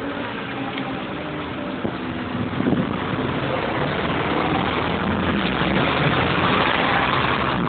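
Diesel train passing over a level crossing: a steady rumble of engine and wheels on the rails that grows slowly louder.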